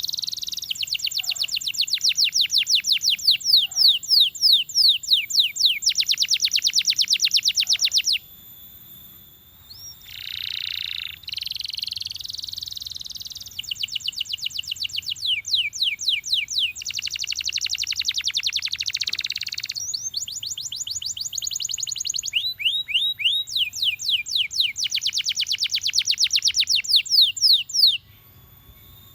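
Belgian canary singing: long trills of rapid, repeated high whistled notes, each run lasting a few seconds. The song breaks off briefly about eight seconds in and again near the end.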